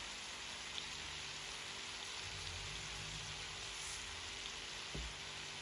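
Ground meat and vegetables sizzling steadily in a frying pan on the stove, with a small dull knock about five seconds in.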